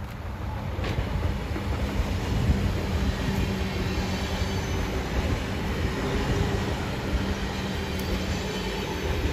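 A train passing on the track: rolling wheel and rail noise that builds over the first second and then holds steady.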